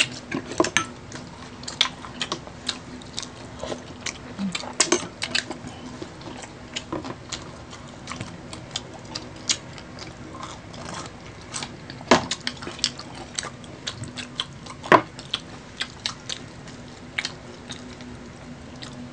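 Close-up chewing and biting of fried Filipino street food such as fishballs and kwek-kwek: irregular wet clicks and smacks of mouths, with a few sharper ones.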